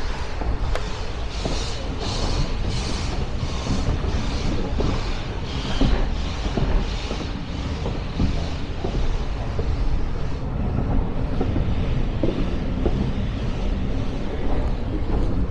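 Steam locomotive exhaust beats, about two chuffs a second, heard over the steady low rumble of a moving train. The chuffs fade after about seven seconds while the rumble continues.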